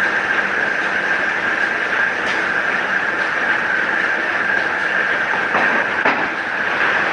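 DQ 201 electric paper-cutting guillotine running steadily, with a high whine over the machine noise and a couple of faint knocks. The owner blames the old, never-serviced machine for a press (paper clamp) that is too weak.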